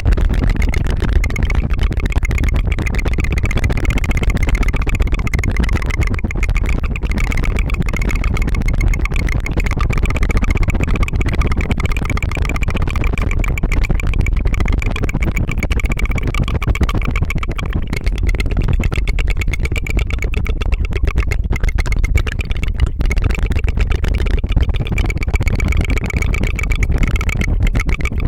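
Rapid tongue fluttering (a tongue trill) close to the microphone: a continuous fast flutter with no break, sounding much like a small motor running.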